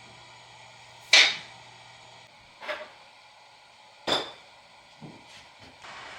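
Four sharp knocks at uneven intervals, the first, about a second in, the loudest and the last faint, over a quiet room.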